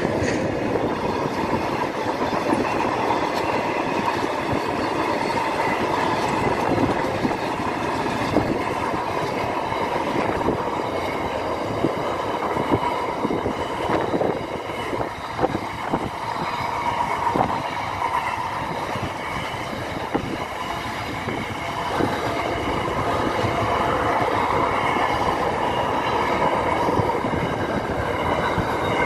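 Freight train of boxcars and double-stacked container wagons rolling past, a steady rumble of steel wheels on rail. A run of sharp wheel clacks over rail joints comes about halfway through.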